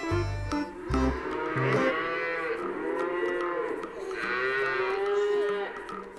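Cattle mooing: several long, drawn-out calls that overlap and rise and fall in pitch. The calls start about a second and a half in, after a few notes of guitar music.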